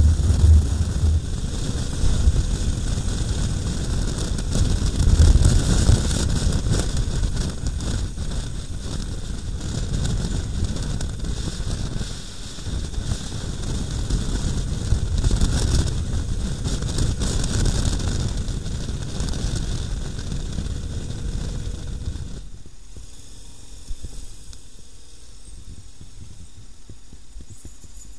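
Wind rushing over the microphone and a low rumble from a moving motorcycle. About 22 seconds in it drops to a quieter steady hiss.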